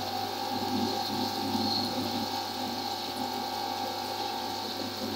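Onions and tomatoes frying in oil with a steady sizzle, while ginger-garlic paste is spooned in, over a steady low hum.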